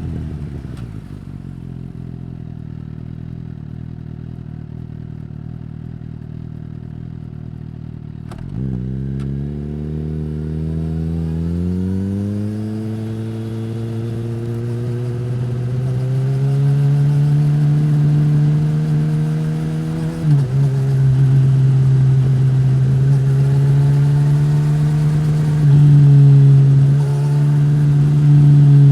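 Suzuki GSX-S1000's inline-four through a Yoshimura R-11 slip-on exhaust. The engine drops back to a low, steady note, then pulls away about eight seconds in with the revs climbing. There is a quick gear change about twenty seconds in, and then the bike holds a steady pace with small throttle changes.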